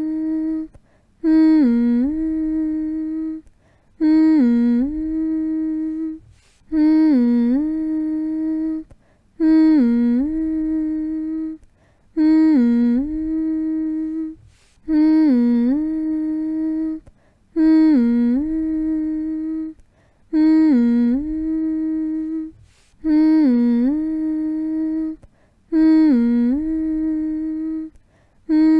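A voice humming the same short phrase over and over, about ten times: each hum dips down in pitch and back up, then holds one steady note for about two seconds before a brief pause.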